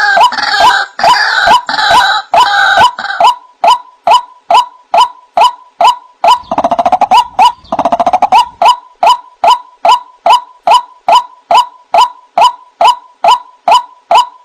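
White-breasted waterhen (ruak-ruak) call played as a bird-trapping lure: a loud, evenly paced run of short "wak" notes, about three a second. Harsher croaking notes overlap them for the first few seconds, and a rattling stretch comes about halfway through.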